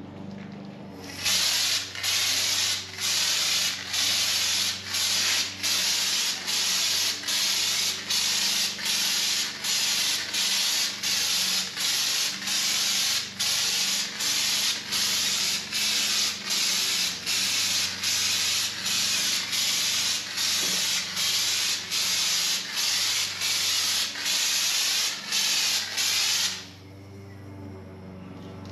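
Air-powered bedliner spray gun hissing as it sprays Raptor bedliner. The hiss comes in quick regular pulses, about three every two seconds, starts about a second in and stops near the end.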